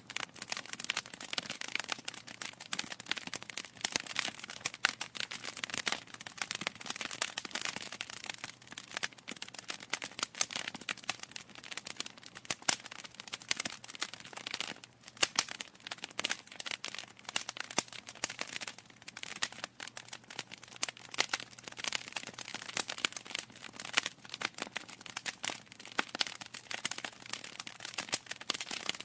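Wood fire crackling in a fireplace: a dense, irregular stream of sharp pops and snaps over a soft hiss from the burning logs.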